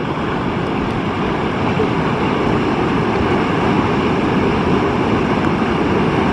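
Fast-flowing, rain-swollen water rushing, a loud, steady roar.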